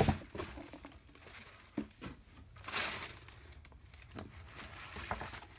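Paper items being handled: light rustling and crinkling with a few soft taps, and a longer rustle just under three seconds in.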